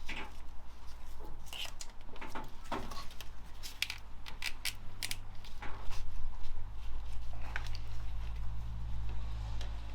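Scattered clicks, clinks and knocks of hand tools and metal parts during engine assembly, likely while an alternator is being fitted, over a steady low hum that grows louder about six seconds in.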